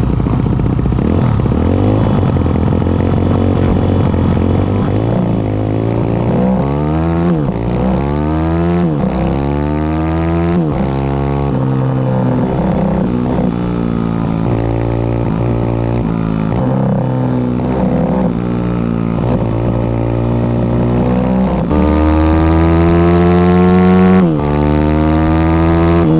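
Pit bike's single-cylinder engine running hard under race load. Its pitch climbs and drops again and again as the rider accelerates, shifts and backs off, then holds high near the end with one brief dip.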